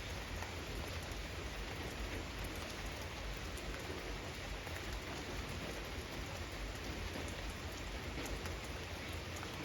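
Steady rain falling, an even hiss with many scattered individual drops ticking on surfaces.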